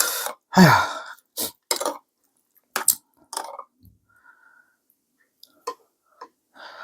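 A man's breathy exhale and a short falling grunt, followed by a few scattered small clicks and mouth noises.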